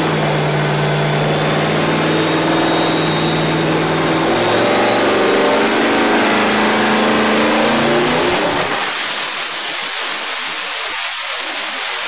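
Twin-turbo carbureted racing engine under full load on an engine dyno. It holds near-steady RPM, then sweeps up with the turbo whine rising in pitch. About 8.5 seconds in the throttle closes and the engine note drops away, leaving a loud rushing hiss of air from the turbos.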